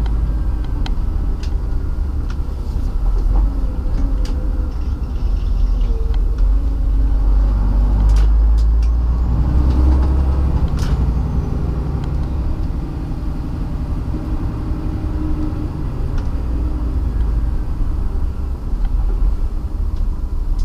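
Scania articulated truck's engine and road noise while driving loaded, a steady low rumble with a few sharp clicks.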